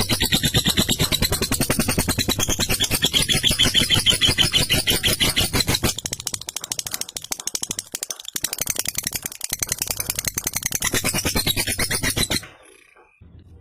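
Lovebird's long 'ngekek' chatter: a rapid, unbroken run of harsh rattling notes that cuts off suddenly near the end.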